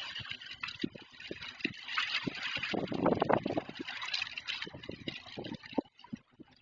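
Summer storm: a rushing hiss of rain and wind that swells to its loudest a few seconds in, with scattered irregular knocks and thuds.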